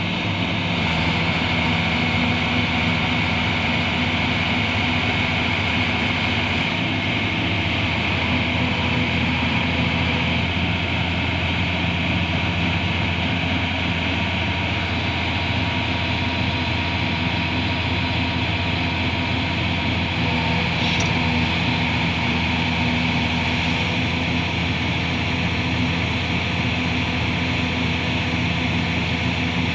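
Liebherr R 944 B demolition excavator's diesel engine running steadily, with a steady high hiss over the engine note.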